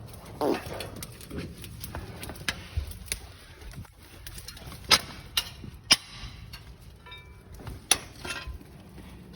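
Scattered sharp knocks and clicks, about half a dozen, the loudest near the middle and one near the end, with a short falling vocal sound near the start.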